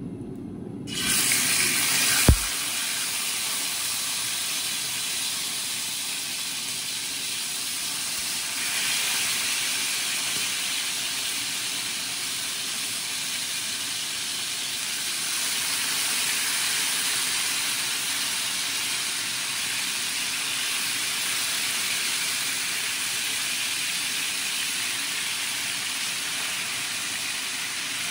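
Marinated chicken fillets sizzling in hot oil in a frying pan: a steady sizzle that starts about a second in and steps louder twice as more fillets are laid in. A single sharp knock sounds a little after two seconds.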